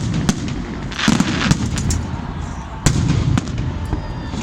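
Fireworks going off: a run of sharp bangs over a low rumble, with a denser crackling burst about a second in.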